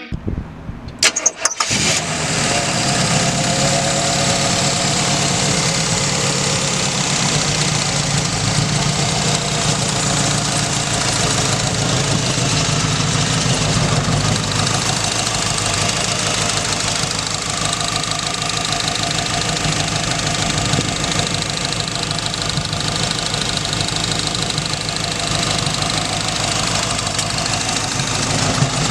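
1933 DeSoto sedan's 350 V8 engine starting with a few brief bursts about a second in, then idling steadily.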